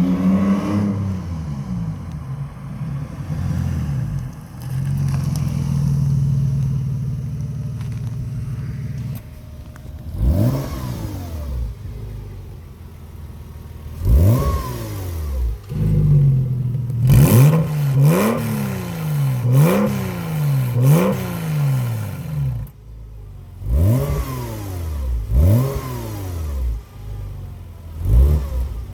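Porsche 986's flat-six engine running steadily through an exhaust fitted with an electric cutout, then blipped repeatedly: about ten short, sharp revs that rise and fall back, several in quick succession.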